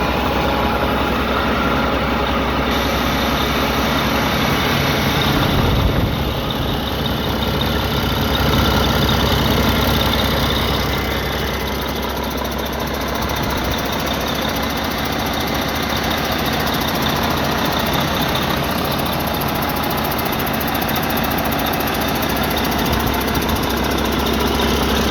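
Remanufactured 2008 Mack MP8 12.8-litre inline-six diesel engine running steadily, with a brief change in its note about six seconds in.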